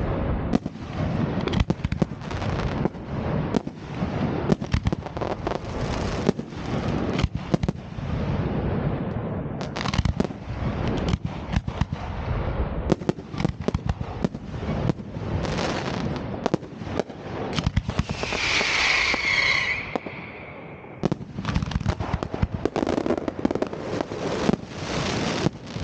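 New Year's Eve fireworks going off in a dense, continuous barrage of bangs and crackles, with a high whistling tone briefly about three-quarters of the way through.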